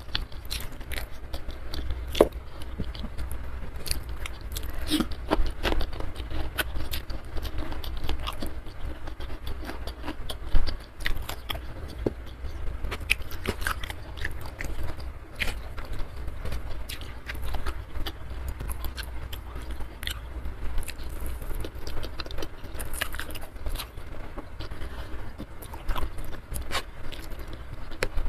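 A person eating close to the microphone: chewing and biting, with many short, irregular wet mouth clicks and occasional scraping, and one louder knock about ten seconds in.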